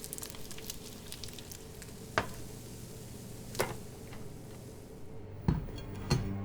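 Food sizzling in a frying pan, a steady hiss broken by a few sharp clicks.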